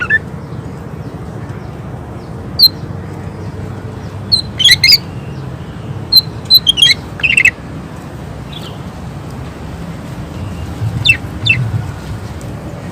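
Green leafbird (cucak ijo) singing in scattered bursts of short, sharp, high notes, several clusters of quick calls separated by pauses of a second or more.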